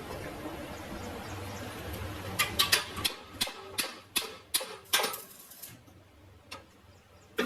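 A low steady hum, then a run of about a dozen sharp clicks or knocks over some three seconds, then quieter.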